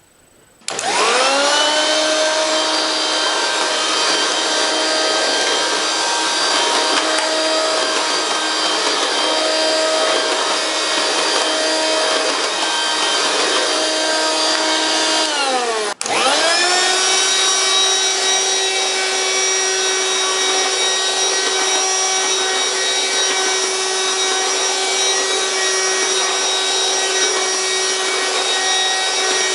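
Hoover Quik Broom Encore S2551 stick vacuum's motor starting with a rising whine and running steadily. About halfway through, its whine falls away, then it spins up again and runs on steadily.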